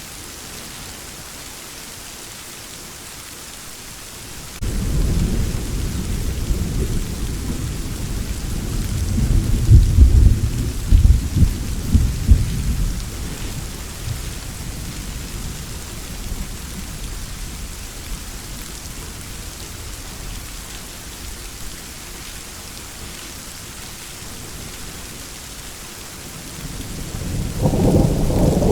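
Steady heavy rain hissing, with a roll of thunder that breaks in suddenly a few seconds in, swells into several loud cracks and rumbles, then fades away; a second rumble of thunder builds near the end.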